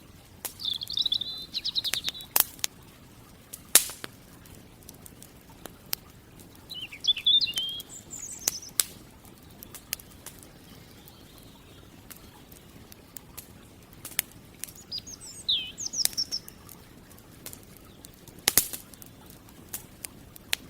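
Campfire crackling, with sharp pops at irregular intervals, while a small songbird sings three short twittering phrases: about a second in, around seven seconds and around fifteen seconds.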